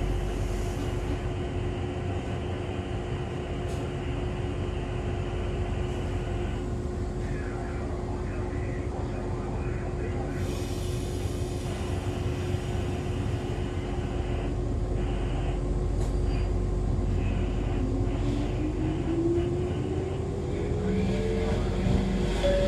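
Interior sound of an Echizen Railway MC6101-series railcar, a steady rumble with a constant hum while it stands, and a short hiss of air about halfway through. Near the end, the whine of the MT54 DC series-wound traction motors and gears starts low and climbs in pitch as the train pulls away.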